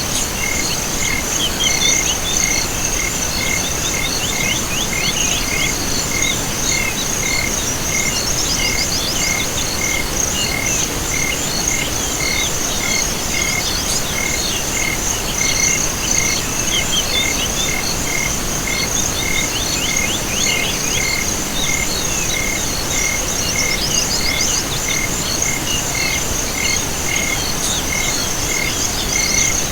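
Night chorus of crickets and other insects with frogs: a steady high-pitched trill, an even chirp repeating about one and a half times a second, and scattered frog calls over a soft background hiss.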